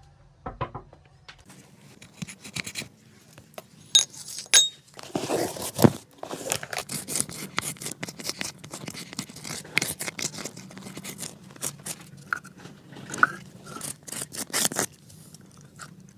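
Quick, repeated scraping and brushing strokes on a shoe as a cobbler works it. A couple of sharp clicks come about four seconds in, the dense strokes run from about five seconds, and they stop about a second before the end.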